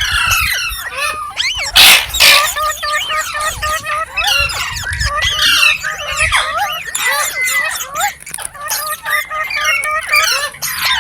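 Indian ringneck parrot chattering: a fast, continuous run of short whistled chirps and squeaks, with one loud, harsh screech about two seconds in.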